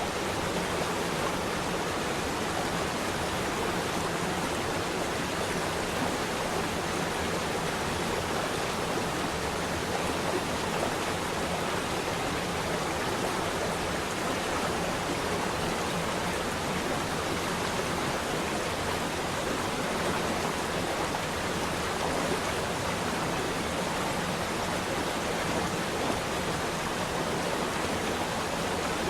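Flowing water running steadily, an even noise with no breaks or changes.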